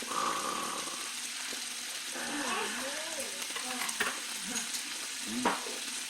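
Pork sizzling and spitting steadily. Two sharp clicks come through, about four seconds in and near the end.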